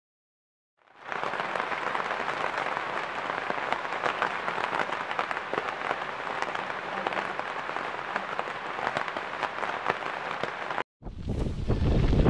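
Rain falling hard on a puddle, a dense crackle of many small drops that starts about a second in. It breaks off near the end, and wind begins buffeting the microphone.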